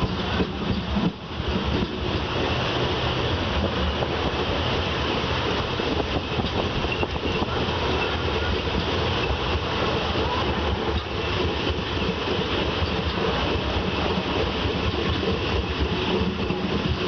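Train running, a loud steady noise with only a brief dip about a second in.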